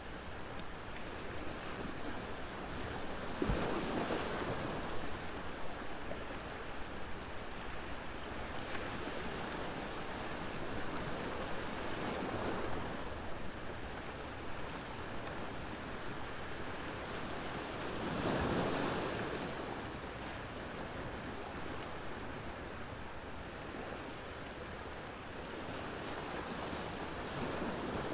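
Ocean waves washing on the shore, a steady wash that swells louder as a wave breaks about 4 s in, again around 18 s and near the end. A wood fire crackles faintly alongside.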